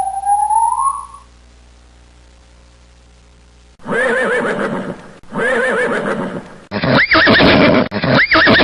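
Animal calls. A rising whistle-like tone fades out in the first second, followed by a low hum. After a pause come two loud quavering calls, each over a second long, then a different call with two quick up-and-down swoops in pitch.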